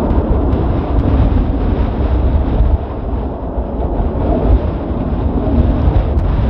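Strong wind buffeting the microphone, a loud gusty rumble with no clear tone.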